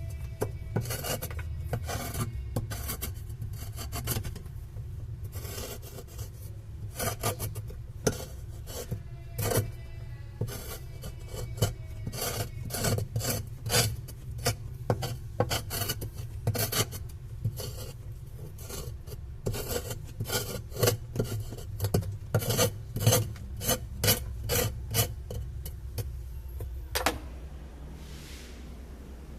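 Scrubbing strokes on a washing machine while it is being cleaned: a rasping rub repeated one or two times a second, stopping abruptly near the end.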